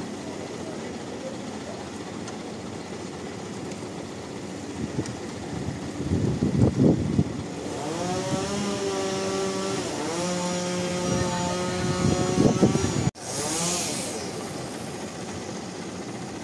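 Engine-driven machinery running, revving up twice so that its pitch climbs and then holds, with louder rough stretches in between. The sound breaks off abruptly about 13 seconds in, then the steady running carries on.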